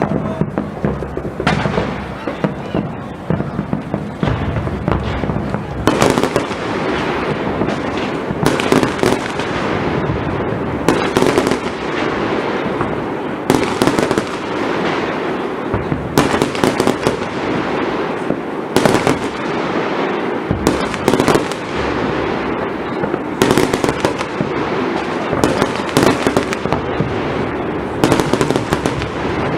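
Firework display: loud shell bursts going off every second or two over a continuous dense crackle.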